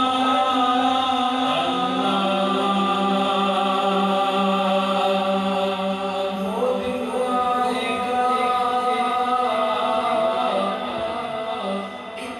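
A male voice singing an Urdu naat in long, held, gliding notes, processed with an echo effect, over a steady hummed vocal drone.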